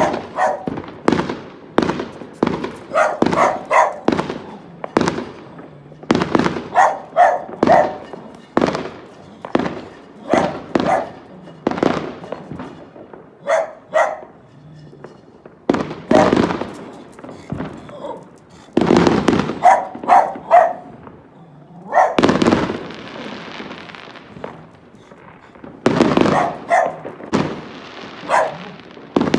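Fireworks going off in rapid irregular bangs and pops, with a longer hissing, crackling stretch about two-thirds of the way in. Between the bangs a dog barks repeatedly in short bursts.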